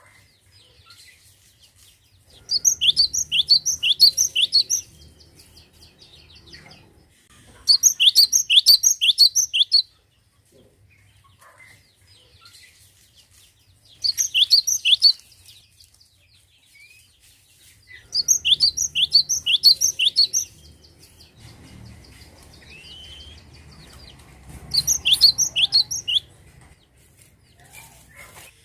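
Cinereous tit (gelatik batu) singing: five phrases of quickly repeated sharp, high notes, each phrase lasting one to two seconds, with pauses of a few seconds between them.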